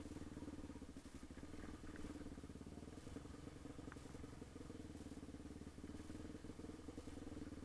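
Yamaha TT-R250 dirt bike's single-cylinder four-stroke engine running at a steady engine speed.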